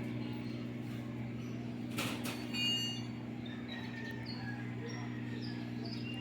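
A steady low hum, with a sharp click about two seconds in, followed by a quick run of short high chirps and a few more faint chirps later.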